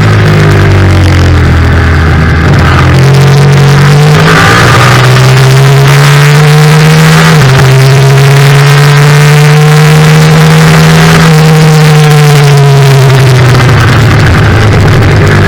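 Yamaha FZ-07 racing motorcycle's parallel-twin engine, loud and under hard use on track. The revs fall at first and then climb from about three seconds in, with a brief dip about seven seconds in and more climbing after it. Near the end the revs fall away again.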